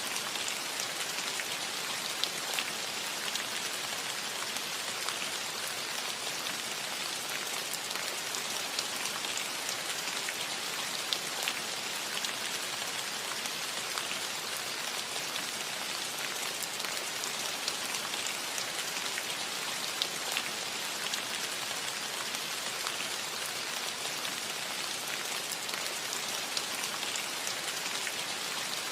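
Steady rain falling on a roof, an even hiss with many small drop ticks scattered through it.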